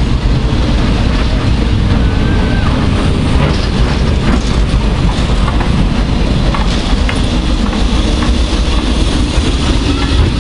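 A train running on the line: a loud, steady, heavy rumble with a few faint clicks.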